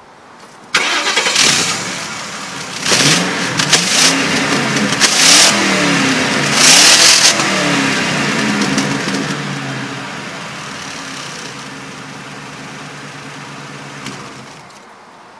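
Ford Crown Victoria Police Interceptor's V8 exhaust. The engine starts under a second in and is revved several times, then settles to an idle and cuts off near the end.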